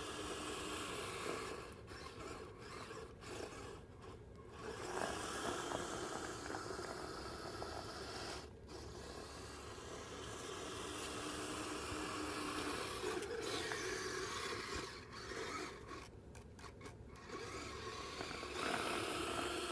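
Kyosho Blizzard RC snowcat driving through slushy snow: its electric motor hums while the tracks scrape and churn the snow, in runs broken by a few short pauses. The slushy snow makes the stock machine labour.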